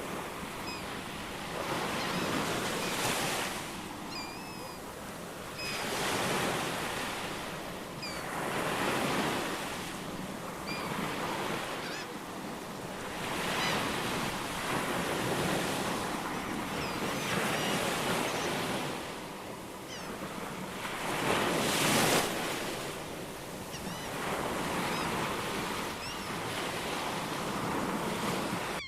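Ocean waves breaking and washing in, swelling and ebbing about every three to four seconds, with faint short bird chirps over the surf.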